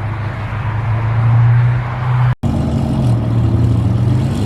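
Car engine running with a steady low drone. The sound cuts out for a split second about two and a half seconds in.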